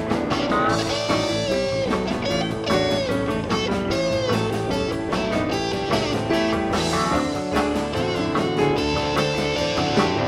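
Live blues-rock band playing an instrumental break: a lead guitar with sliding, bending notes over bass, drums and keyboards.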